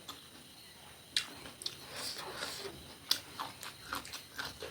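A person chewing and biting food close to the microphone, with wet mouth sounds and several sharp crunchy clicks, the first about a second in and more around three to four seconds.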